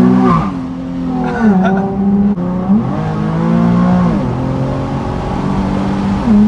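Nissan 370Z's 3.7-litre V6 with a full aftermarket exhaust, revving near its redline at nearly wide-open throttle, heard from inside the cabin. The engine note drops and climbs sharply several times in the first three seconds, holds steady for about three seconds, then climbs again near the end.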